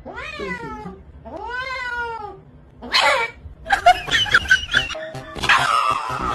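An animal crying out twice in long, drawn-out wails, each rising then falling in pitch. From about three seconds in, a loud, busy mix of noises and music follows.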